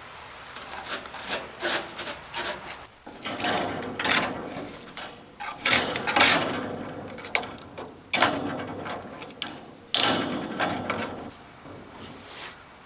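Repeated rough scraping and rubbing strokes at irregular intervals, the loudest about halfway through and again near the end.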